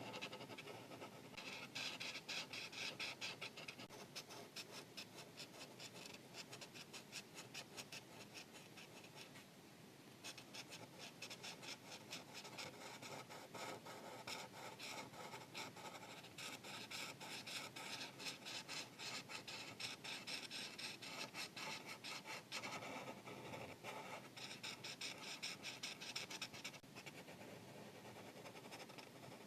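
Marker tip rubbing across paper in rapid back-and-forth coloring strokes, with a few short pauses.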